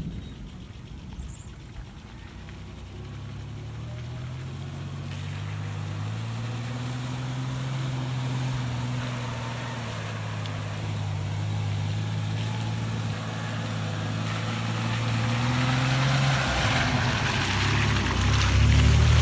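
Car engine pulling under load on a rain-soaked road, its hum easing and swelling slightly and growing steadily louder, with a wet hiss of water and tyres rising toward the end.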